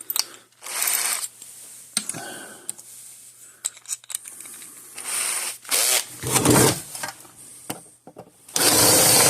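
Power drill boring out the rivets on a metal fence charger's case. It runs in several short bursts, then a longer, louder run near the end.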